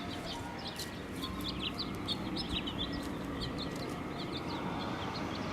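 Birds chirping: many short, high chirps a few times a second over a steady background noise.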